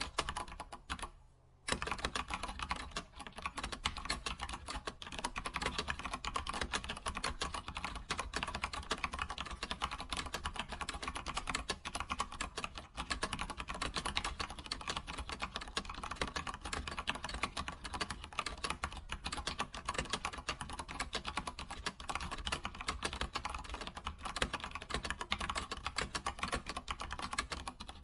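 Computer keyboard typed on quickly and continuously, a dense run of key clicks with a brief pause about a second in.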